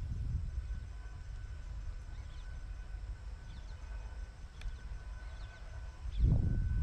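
Faint bird chirps over a constant low rumble, which swells suddenly and loudly about six seconds in, with a faint steady high tone underneath.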